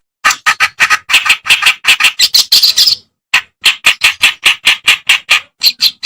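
Kerakbasi (reed warbler) singing: a fast, unbroken string of harsh, scratchy notes, about five a second, with a brief break about three seconds in.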